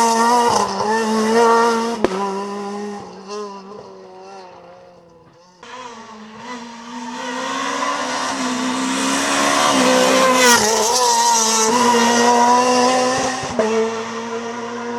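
Renault Clio R3 rally car engine at high revs, the revs rising and falling through throttle lifts and gear changes. It fades away into the distance, then about a third of the way in a louder pass builds up again.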